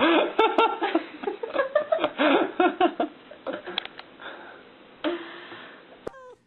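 A person's voice, loud for the first few seconds and then fading to quieter sounds, with a sharp click near the end.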